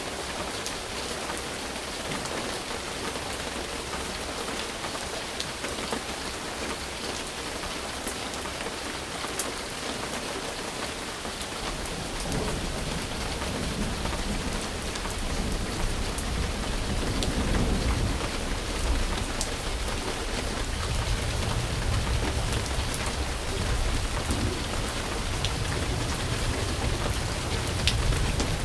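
Steady rain falling, with scattered sharp drip ticks. About halfway through a low thunder rumble rolls in and builds, swelling twice.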